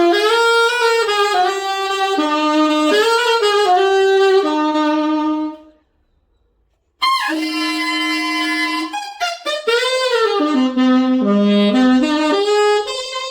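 Unbranded Chinese-made alto saxophone played solo: a melodic phrase of held and stepping notes, a pause of about a second near the middle, then a second phrase that drops into lower notes toward the end.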